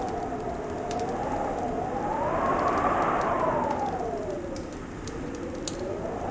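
Winter wind rushing steadily, its whistle slowly rising and falling in pitch, with faint, sparse crackles from a fireplace.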